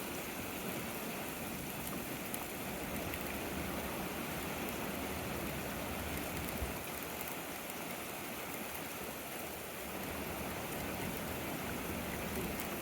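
Steady rain falling during a thunderstorm, a continuous even hiss of rain with a brief low knock about halfway through.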